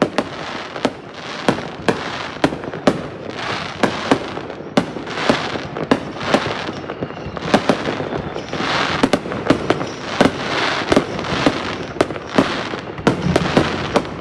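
Fireworks going off: a run of sharp bangs at uneven intervals, several a second at times, over steady crackling and fizzing.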